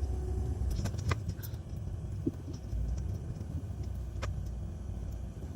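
Low, steady rumble of a car's engine and tyres heard from inside the cabin while driving, with a couple of brief clicks.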